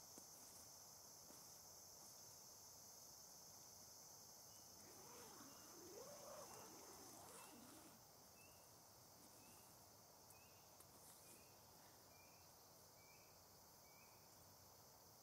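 Faint night-time forest sounds: a steady high drone of insects or crickets that stops about seven seconds in, and a run of short, evenly spaced high call notes, about three every two seconds, slowly dropping in pitch from about four seconds in until near the end.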